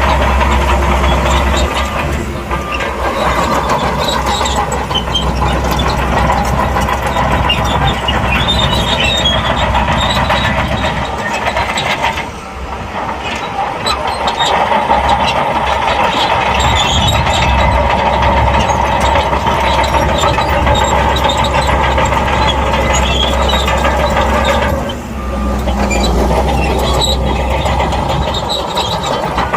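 SHANTUI crawler bulldozer working: its diesel engine runs steadily under load while the steel tracks clank. The sound dips briefly twice, about twelve seconds in and again near twenty-five seconds.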